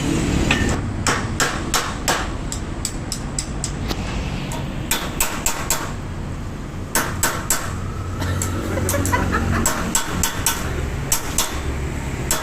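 Irregular sharp knocks and taps, like a hammer striking, some single and some in quick runs, over a steady low hum.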